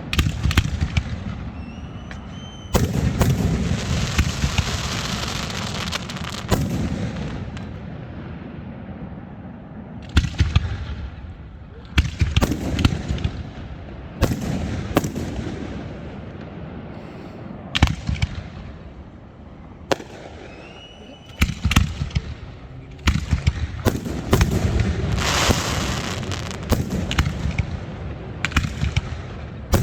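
Fireworks going off: a long run of sharp bangs, each followed by a stretch of crackling, with a couple of short whistles among them.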